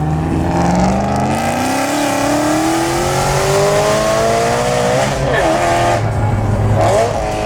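E90 BMW M3's straight-piped 4.0-litre V8 at full throttle. Its note climbs steadily for about five seconds, then drops and picks up again twice in quick upshifts.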